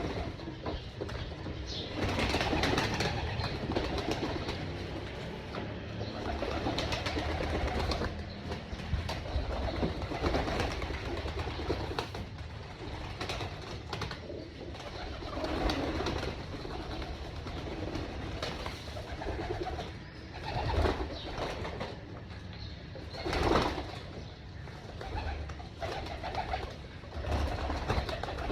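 A flock of domestic pigeons cooing together, with frequent short noisy bursts of activity among the birds.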